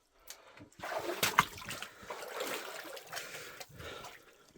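Water splashing and sloshing as someone wades through a flooded mine tunnel, in uneven strokes with a few sharper splashes about a second in.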